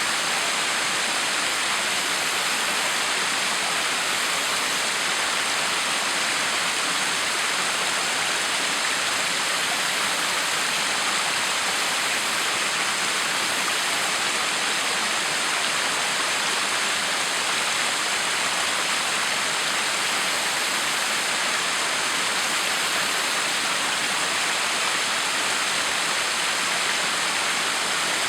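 A backyard waterfall running, a steady, unbroken rush of splashing water.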